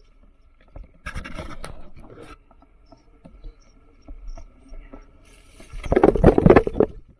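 Mountain bike rolling over a forest trail: two bursts of tyre-on-dirt scraping and rattling, the second, about six seconds in, louder.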